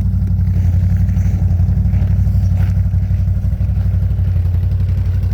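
A vehicle engine running steadily at an even, low pitch with no change in speed.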